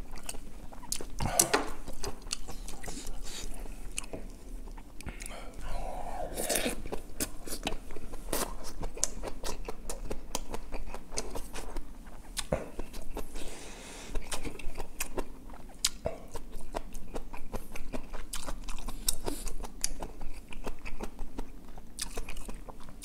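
Close-miked chewing of braised kimchi and pork, with lip smacking and many short wet mouth clicks.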